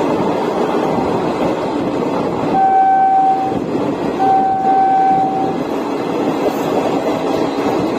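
Indian Railways express train running with steady rail noise, while a train horn sounds two steady blasts: a shorter one about two and a half seconds in and a longer one just after four seconds.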